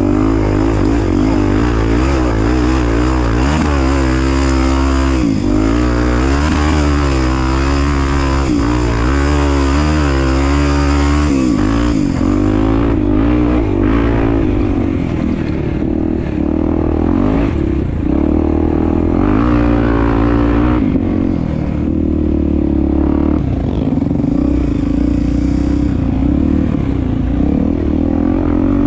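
Honda Tornado 250 motorcycle's single-cylinder four-stroke engine running under way, its revs rising and falling with the throttle.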